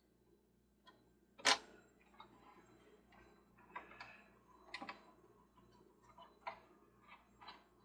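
Scattered clicks and knocks of small metal and plastic parts of a toy Ferris wheel being handled and fitted together. One sharper, louder knock comes about a second and a half in, and the clicking grows busier toward the end.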